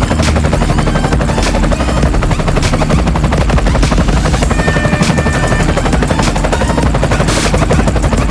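Helicopter rotor sound: a rapid, even chop of blades over a steady low drone.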